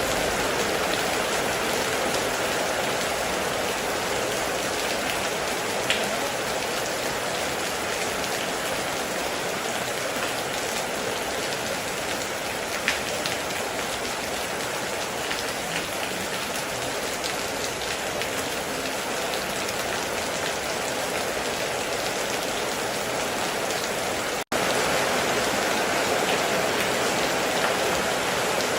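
Steady heavy rain falling, an even hiss with a few sharper single drop ticks. A split-second gap cuts the sound about three-quarters of the way through, then the rain resumes slightly louder.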